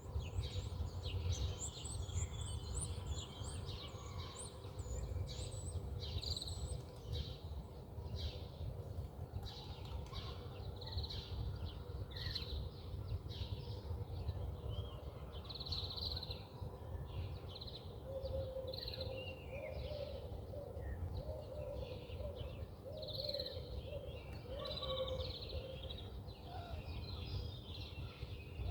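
Several songbirds chirping and twittering over a steady low rumble. In the second half a run of lower, short repeated notes joins in.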